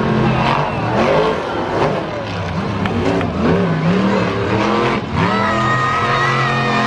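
Monster truck engine revving, its pitch rising and falling in quick swoops, then holding a steadier note from about five seconds in.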